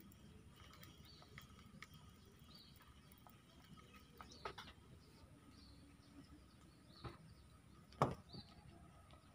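Faint bird chirps, short high notes repeating about once a second, with a soft knock about halfway through and a louder sharp knock near the end.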